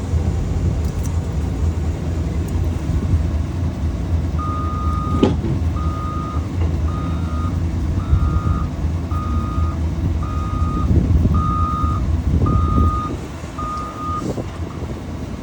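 A vehicle's reversing alarm beeping about once a second, nine beeps in a row, over a steady low engine rumble that fades near the end.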